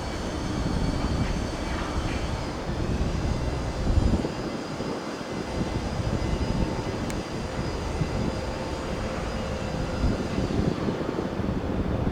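Tokyu 9000 series electric train running past, a steady rushing noise with wind buffeting the microphone.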